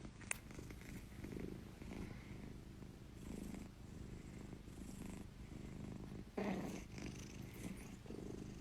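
A cat purring softly in slow, even swells, with a brief click just after the start.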